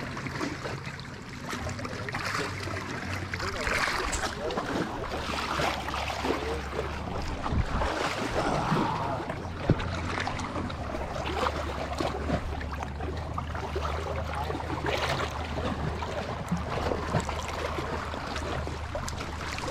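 Water sloshing and splashing as people wade and wash in it.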